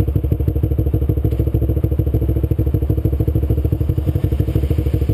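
Kawasaki Ninja 250's parallel-twin engine running steadily under way, with a rapid, even pulsing.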